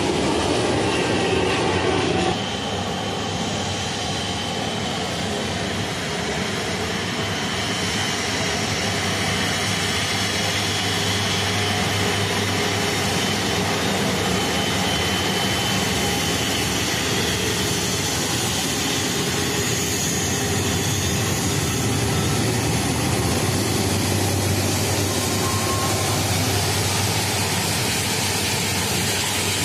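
Steady jet engine and airflow noise heard inside an airliner cabin, a constant rush with faint steady tones that drops a little about two seconds in.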